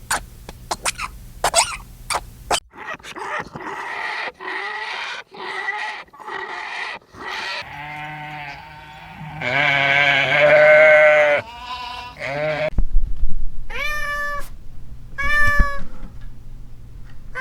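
Animal calls: a quick run of short clicking sounds in the first few seconds, then a cat meowing, with drawn-out, wavering meows in the middle and a few short meows near the end.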